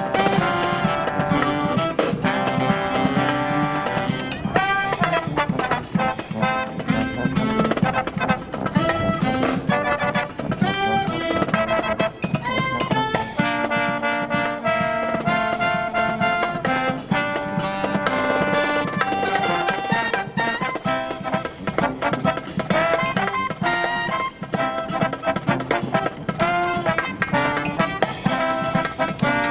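Brass marching band playing live: trumpets and trombones carrying the tune over drums, without a break.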